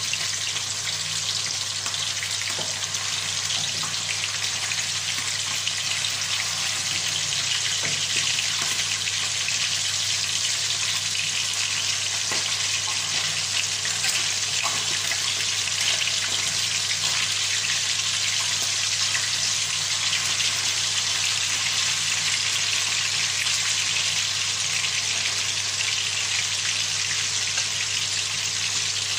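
Salmon pieces frying in hot cooking oil in a pan: a steady, even sizzle.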